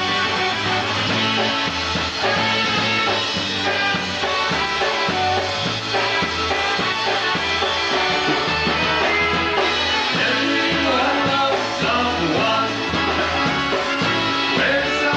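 Live polka band playing an upbeat oldie tune, with a bass line pulsing on a steady beat.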